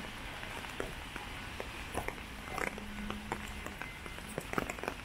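Steady rain with irregular close drops ticking and pattering.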